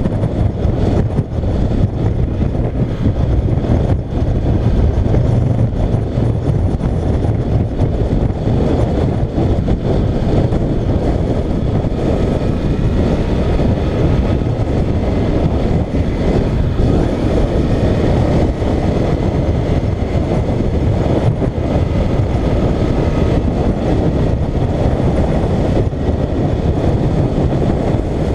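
Motorcycle riding at a steady pace, its engine running evenly under heavy wind rush on the camera's microphone.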